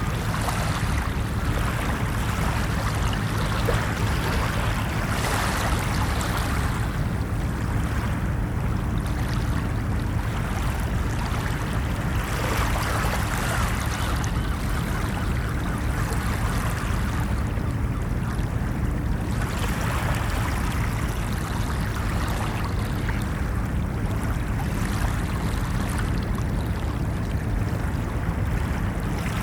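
Ocean surf: a continuous low rush of waves, with a wash of breaking water swelling and fading every few seconds.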